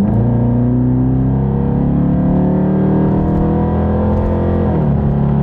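Exhaust of a 2018 Dodge Charger R/T Daytona's 5.7-litre Hemi V8 with the mid muffler deleted, pulling under acceleration. The pitch jumps up at the start and climbs steadily, then drops sharply near the end as the car shifts up.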